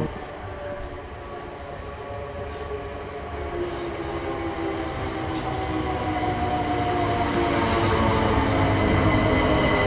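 Class 376 electric multiple-unit train running, its traction motors giving a whine of several tones that slowly falls in pitch, over the rumble of the train, growing steadily louder as it approaches.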